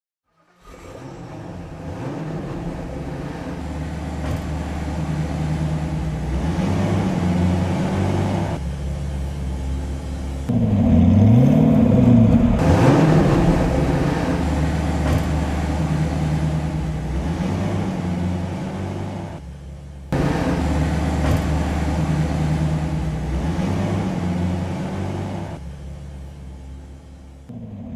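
Koenigsegg Regera's twin-turbo V8 idling with a steady low note, blipped in a couple of quick revs rising and falling near the middle and once more near the end.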